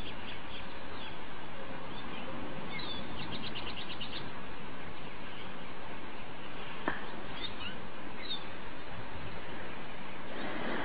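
Small bird chirping: a quick run of short high notes a few seconds in, then a couple of single chirps, over a steady background noise.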